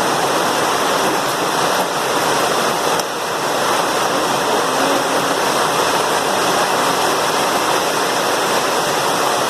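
Heavy downpour: a steady, loud rush of pouring rain.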